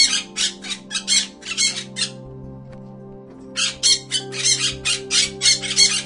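A bird squawking in quick harsh calls, about four a second, which break off about two seconds in and start again near four seconds, over background music.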